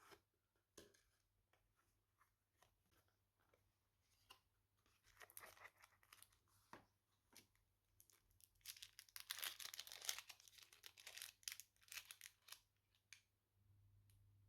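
Packaging being handled: scattered small clicks and taps, then two spells of crinkling and tearing, about five seconds in and again from about nine seconds, the second the louder.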